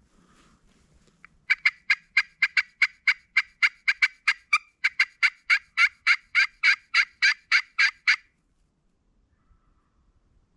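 A long, fast run of turkey yelps, about four sharp notes a second for some seven seconds, each note dropping in pitch. It starts about a second in.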